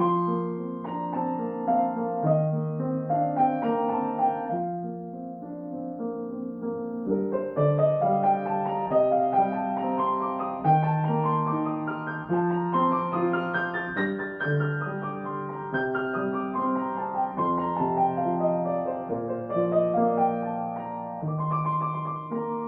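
Solo piano playing a gentle early-intermediate piece. Held bass notes sit under flowing broken-chord runs that climb to a high point about halfway through, then fall back down.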